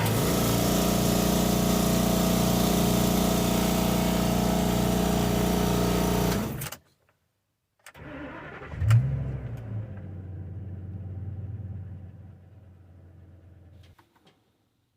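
An engine running steadily and loudly with a regular low pulse, cut off abruptly; after about a second of silence an engine starts with a brief surge and settles to a quieter idle that fades out near the end.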